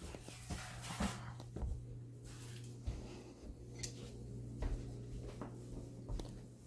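Scattered light clicks and knocks of hands fitting and trying a re-bent dishwasher door spring, over a steady low hum.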